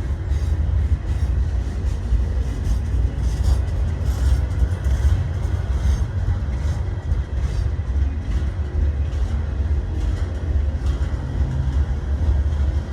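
Train moving on the rails with a steady low rumble and scattered light clicks, with no brake squeal.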